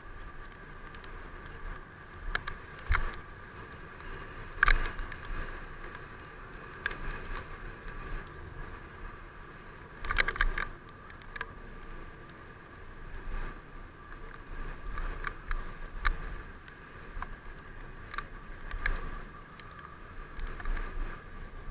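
Riding noise from a bicycle on the move: a steady hum of tyres and wind, with irregular knocks and rattles from bumps, the loudest about 5 and 10 seconds in.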